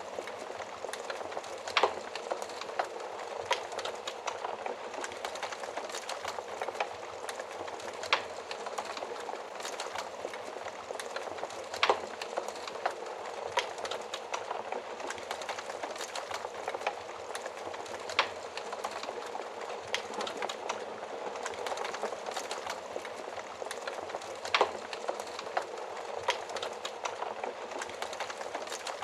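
Wood fire burning inside a stove or oven: a steady rushing hiss of flames with irregular sharp crackles and pops from the burning wood, a handful of louder pops standing out.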